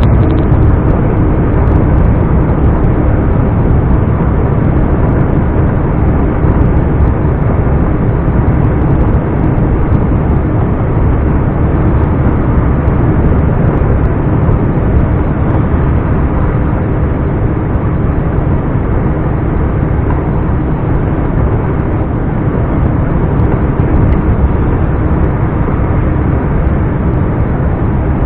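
Scania R420 truck's inline-six diesel engine running steadily while the truck is driven, loud and even throughout.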